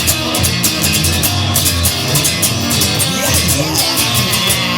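Instrumental stretch of a rock song without vocals: electric guitar over a drum kit, with a steady cymbal beat.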